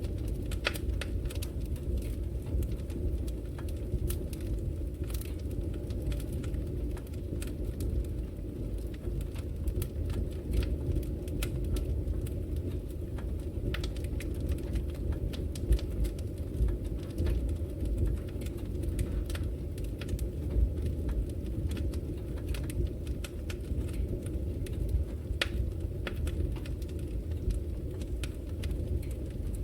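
Wood fire burning in a fireplace: a steady low rumble of flames with frequent, irregular crackles and pops from the logs.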